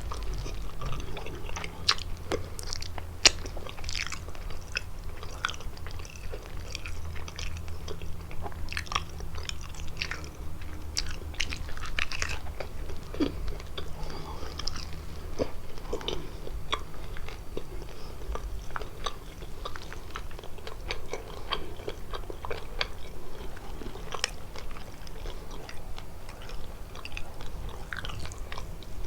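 Close-miked biting and chewing of kalaj pastry filled with walnuts and cheese: irregular crisp crunches and sharp mouth clicks throughout, one especially loud about three seconds in.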